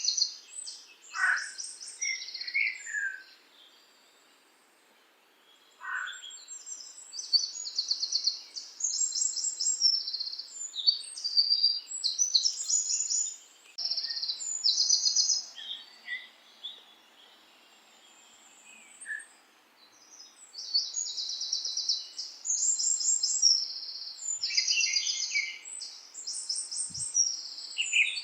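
Songbirds singing: a chorus of high, rapid trilled phrases, with a few short falling whistles and brief quiet gaps between bouts.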